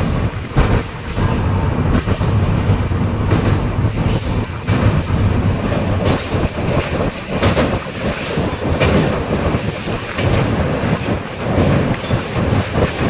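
Passenger train running at speed across a river bridge, heard from inside the coach through an open window: a steady rumble with the wheels clattering irregularly over the rails.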